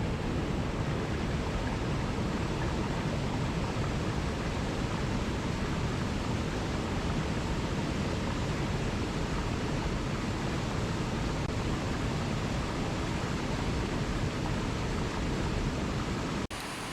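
Steady, even rushing of water, full and deep, with no distinct events. It breaks off abruptly just before the end, giving way to a quieter rushing sound.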